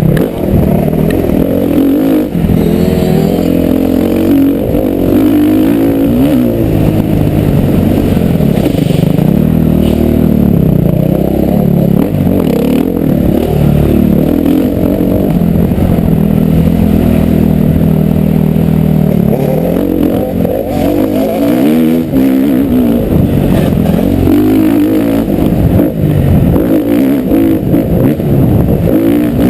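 Motocross bike engine running hard and loud throughout, its pitch rising and falling over and over as the throttle opens and closes.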